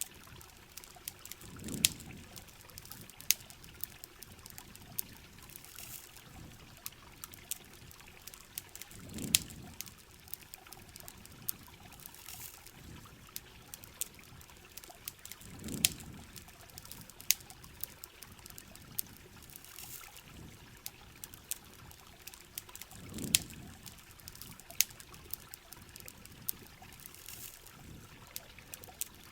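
Steady rain with frequent sharp pops and crackles from a campfire, and a soft low swell about every seven seconds.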